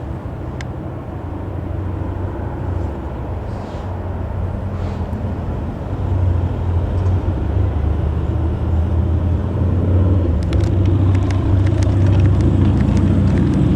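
Reims Cessna FR172E Rocket's single piston engine, a Continental IO-360, running steadily and getting louder over the stretch, with a scatter of small clicks in the later part.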